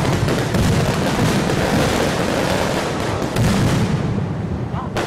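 Fireworks going off in a dense, unbroken barrage of overlapping bangs.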